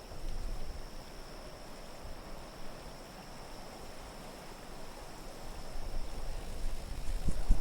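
Steady wind ambience: an even rushing hiss over a low rumble, with a faint high whistling tone held throughout. It swells in the last couple of seconds, where a few low thuds begin.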